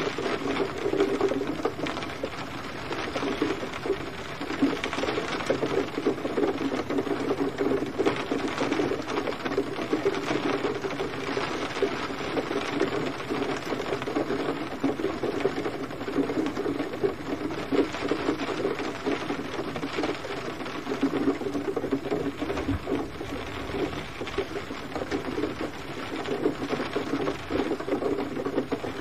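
Steady rain falling, a dense, unbroken patter of many small drops.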